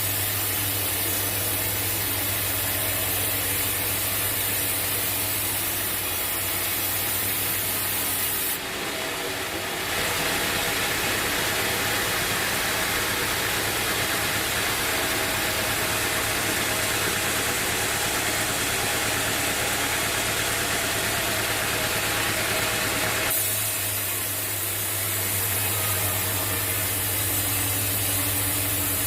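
Bandsaw sawmill running steadily, a low hum under a hiss. For a long middle stretch the hum drops away and the hiss gets louder, then the hum comes back.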